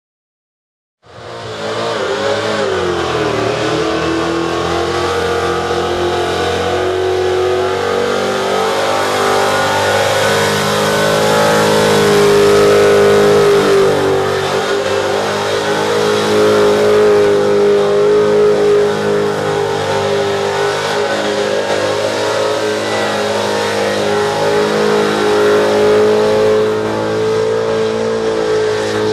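Supercharged Chevrolet V8 in an HG Holden ute held at high revs through a burnout. The engine note starts abruptly about a second in, dips briefly, then stays high and steady.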